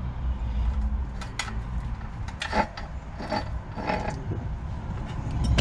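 Metal hand tools clicking and scraping against small engine parts during a teardown: a handful of short clinks and scrapes about a second apart, over a low steady hum.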